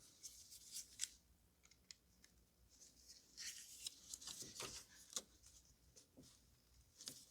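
Faint clicks and scratchy rustling of hard plastic being handled: an ignition coil's electrical connector being worked at its plastic release tab. The clicks come in scattered clusters, busiest a little past the middle.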